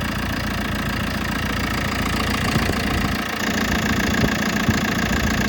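JCB 3CX backhoe loader's diesel engine idling steadily, heard with the engine hood open.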